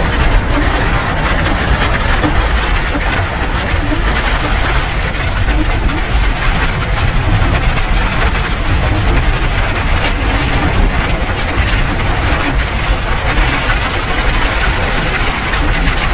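Steady rain falling: a dense, even hiss with fine pattering ticks and a strong low rumble underneath.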